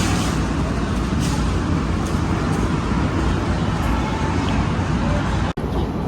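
Steady loud rumble of traffic or vehicle noise, broken by a sudden momentary dropout about five and a half seconds in.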